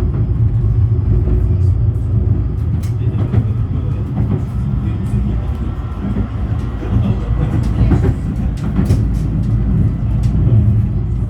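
Steady low rumble of a 71-911EM "Lvyonok-M" tram in motion, heard from inside: wheels running on the rails and the drive working, with scattered short clicks and knocks.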